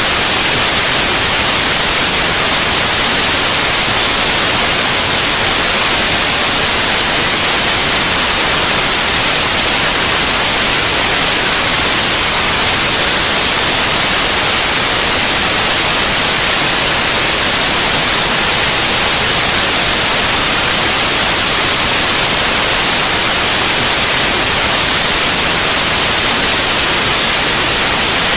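Steady, loud white noise: an even, unchanging hiss strongest in the high frequencies.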